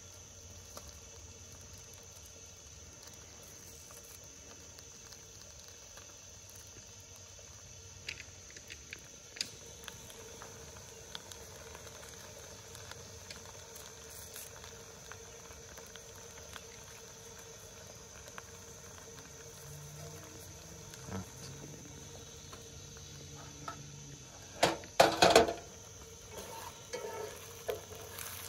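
Eggs frying in a cast-iron skillet on a propane camp stove: a faint steady sizzle with scattered light clicks. Near the end, a short loud clatter of a metal spatula scraping against the pan.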